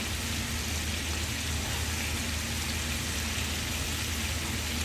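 Food frying in a pan of hot oil: a steady sizzle, with a low steady hum underneath.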